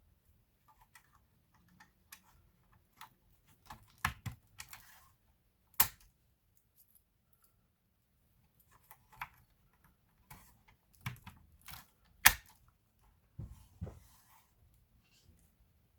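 Irregular clicks and taps of laptop parts and tools being handled, with two sharper clicks, one about six seconds in and the loudest about twelve seconds in.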